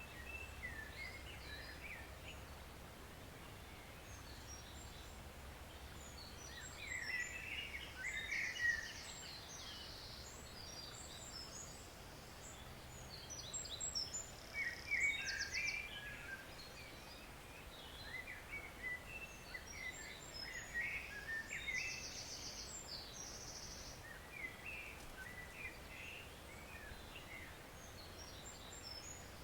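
Woodland songbirds singing in short phrases and quick high trills, coming in clusters every several seconds, over the faint steady rush of a small forest stream.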